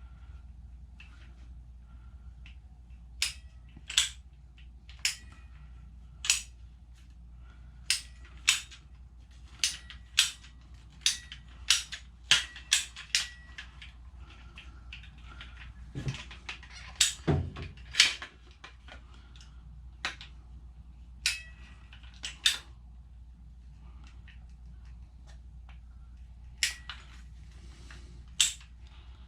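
Ratcheting PVC pipe cutter being squeezed on PVC pipe: a couple of dozen sharp clicks and snaps at irregular intervals, bunched most closely in the middle.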